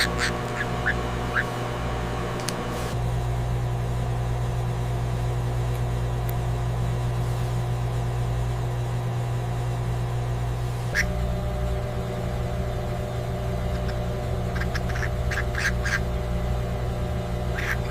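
Parrot chicks giving short, raspy begging calls in small clusters: a few at the start, one about 11 seconds in, and several more near the end. A steady low hum runs underneath.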